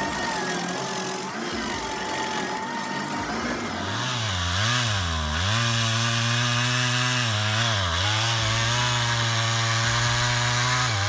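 Chainsaw engine running, louder from about four seconds in, its pitch dipping and recovering several times as it bogs in a cut.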